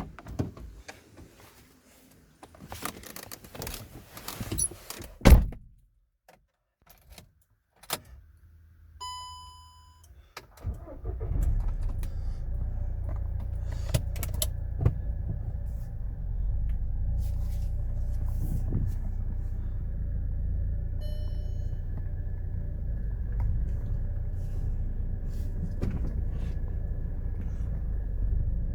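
Car door and handling knocks with keys jangling, then a short electronic beep. About ten seconds in, a car engine starts and runs steadily with a low rumble; a second brief beep comes partway through.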